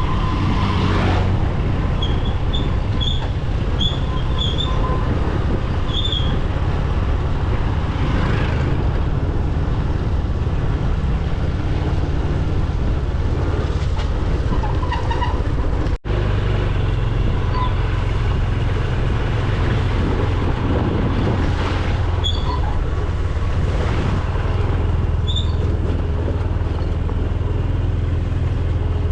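Steady low rumble, like a motor vehicle running, with short high chirps or squeaks now and then and a momentary break about halfway through.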